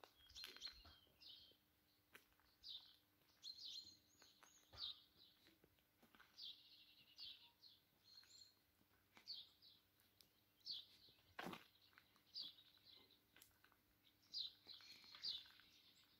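Small birds chirping, faint: short high calls that come again and again, about one every second or so. Under them runs a faint steady low hum, and there is a sharp click a little past the middle.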